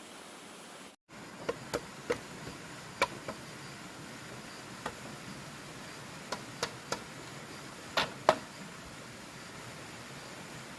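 About a dozen irregular, sharp taps and knocks over a steady hiss; the loudest come as a close pair near the end. The sound drops out completely for a moment about a second in.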